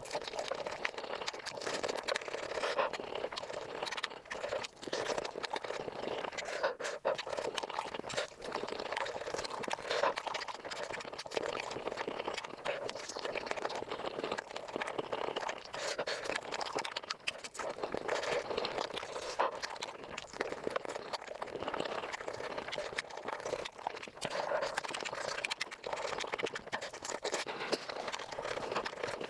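Close-miked chewing and crunching of chicken feet, played back at five times speed, so the bites and mouth smacks run together into a rapid, dense crackle.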